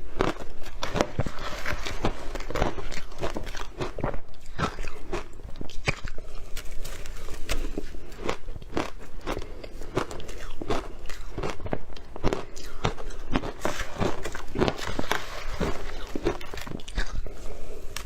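Close-miked crunching bites and chewing of a brittle, crunchy food, a dense run of sharp crackling crunches.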